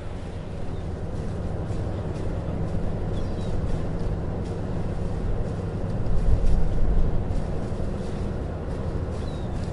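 A vehicle's engine is running with a steady low rumble that swells briefly about six seconds in.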